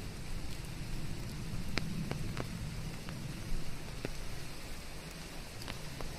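Steady rain mixed with white noise: an even hiss over a low rumble, with a handful of sharp, separate drops landing close by at irregular moments.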